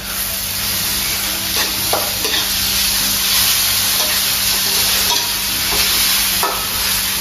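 Instant noodles sizzling in a hot wok on a portable gas stove, stirred with a spatula, as a steady hiss.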